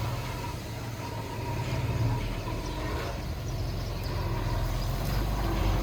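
Heavy diesel earthmoving machinery running steadily, its engine note rising and falling a little.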